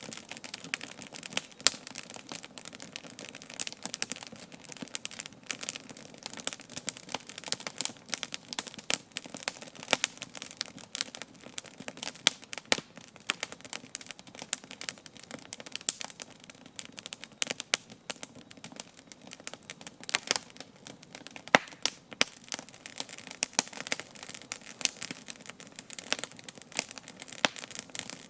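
Wood campfire burning, with dense irregular crackling and sharp pops over a steady low hiss.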